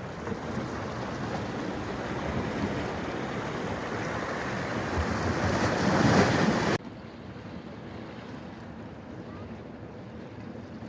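Flowing water rushing steadily, growing louder for about six seconds, then cutting off abruptly to a quieter steady rush.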